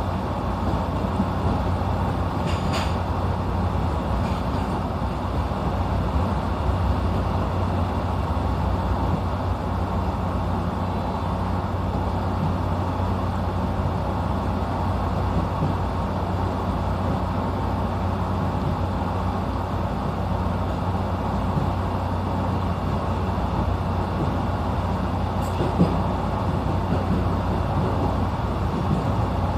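The inside of a local electric train running at speed: a steady rumble of wheels on rail and running gear, with a low hum under it. There are two brief clicks, one about 3 s in and a sharper one near the end.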